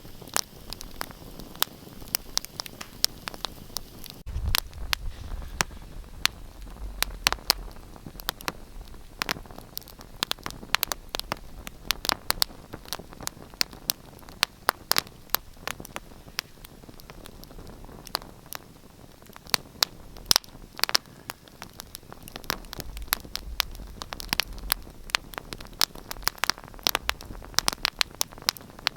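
Wood fire in a fireplace crackling, with irregular sharp pops and snaps over a soft hiss, and a low rumble now and then.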